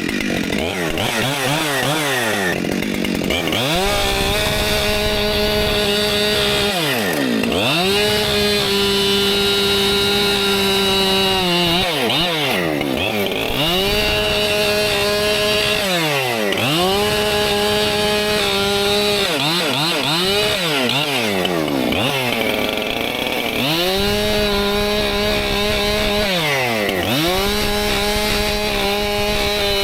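Two-stroke Husqvarna chainsaw bucking firewood, about six cuts in a row. In each cut the engine pitch drops and holds steady under load for a few seconds, then rises back to full revs as the chain comes free.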